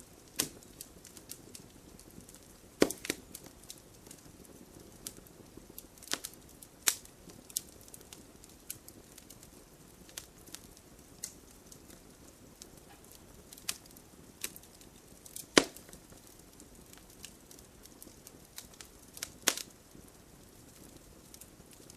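Wood fire burning in a fireplace, crackling with irregular sharp pops over a soft steady hiss; a few louder snaps stand out, the loudest about two-thirds of the way through.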